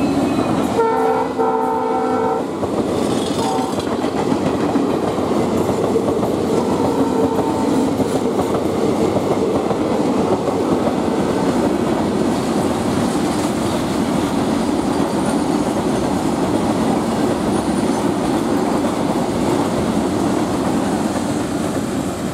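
EMD WDG4 diesel locomotive sounding its horn in one blast of about a second and a half, starting about a second in. Under and after it comes the steady rumble and clickety-clack of wheels on rail as the coaches and a long rake of covered goods wagons pass at speed.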